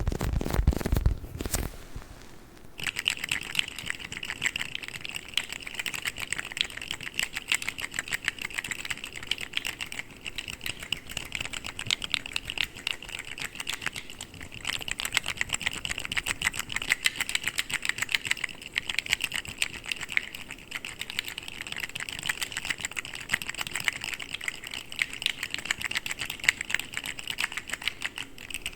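A brief low squishing sound at the start, then from about three seconds in a dense, rapid clatter of small clicks: articulated plastic fidget slug toys rattling as their jointed segments are wiggled and flexed.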